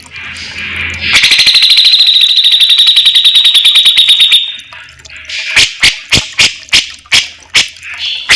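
Cucak jenggot (grey-cheeked bulbul) calling. It gives a rapid, buzzing trill of about ten notes a second, lasting some three seconds, then breaks into a series of sharp, clipped chips.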